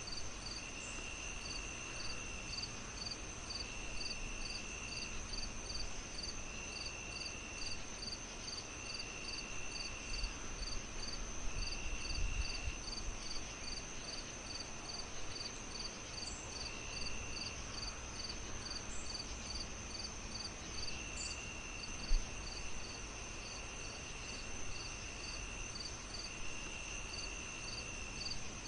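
Crickets chirping steadily in layers: a regular chirp about two to three times a second, a continuous high trill, and a lower trill that comes and goes in stretches of about a second and a half. Underneath is a soft fireplace crackle, with one sharp pop near the end.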